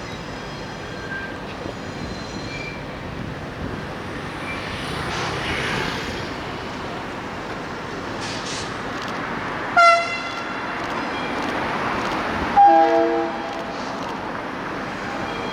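Locomotive horn sounded twice over a steady background rumble: a short single-pitched toot about ten seconds in, then a lower, longer multi-note blast about three seconds later.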